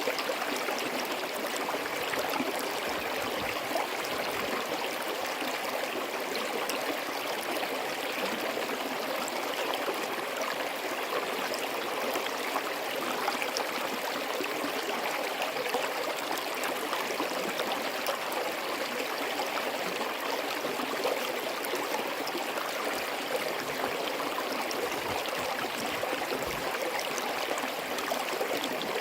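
Forest stream running steadily over rocks, a continuous rush of water with fine gurgling and trickling.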